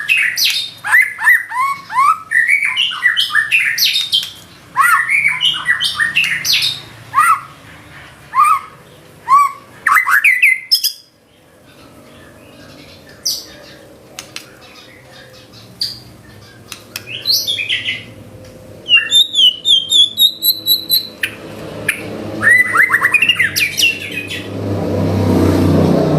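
White-rumped shama (murai batu) singing a varied song of quick rising and falling whistled notes, chips and trills, packed with mimicked calls, in two long bursts with a pause of several seconds midway. Near the end a low rumbling noise swells up.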